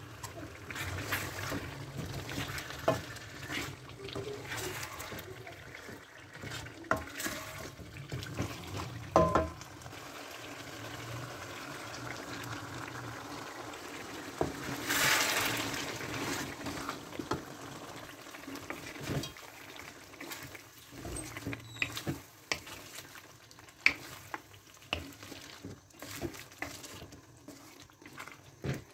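Chicken frying with its spice masala in a wok, a spatula stirring and scraping against the pan with occasional sharp knocks. The sizzling grows louder for a second or two about halfway through.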